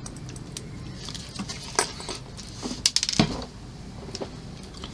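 Scattered small clicks and clatters of tiny model-kit parts, a small screw and a screwdriver being handled, loudest about three seconds in. The screwdriver no longer holds the screw magnetically.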